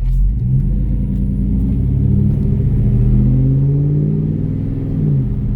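2007 Chevrolet Silverado pickup's engine accelerating as the truck pulls away, heard from the cab with the windows down: its pitch climbs steadily, levels off, then dips about five seconds in.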